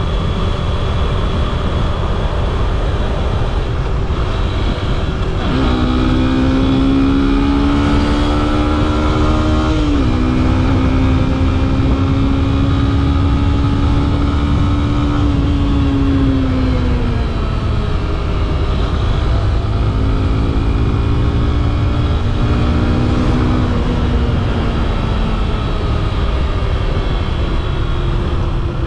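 Yamaha FZ-S V3's 150cc single-cylinder engine heard while riding, with steady wind rush on the microphone. It pulls up in revs about five seconds in, shifts up around ten seconds and holds a steady pitch, then eases off. A second, shorter pull comes about twenty seconds in and fades off a few seconds later.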